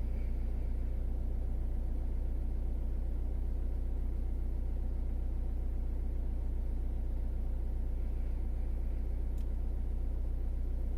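Citroen C4 Grand Picasso's 1.6 HDi four-cylinder turbodiesel idling steadily just after a cold start, heard from inside the cabin with the bonnet shut.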